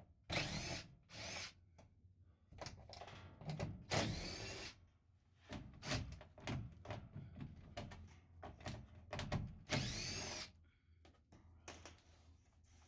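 Cordless drill/driver running in several short bursts, each with a whine that rises and falls in pitch as the motor spins up and stops: driving out screws.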